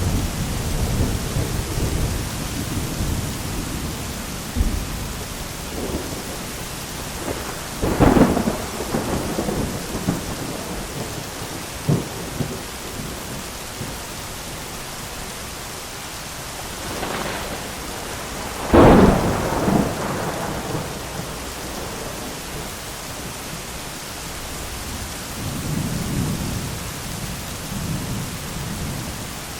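Thunderstorm: steady heavy rain with rolling thunder. Two sharp, loud thunderclaps strike about 8 and 19 seconds in, the second the loudest, with lower rumbling near the start and again near the end.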